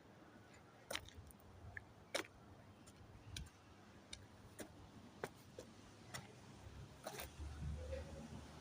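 Faint, irregular clicks and taps, roughly one or two a second, over a low background hum.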